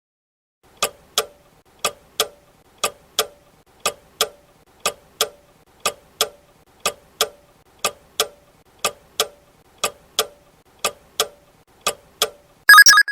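Countdown-timer sound effect of a ticking clock, a tick-tock pair about once a second, then a short, louder ring near the end as the time to answer runs out.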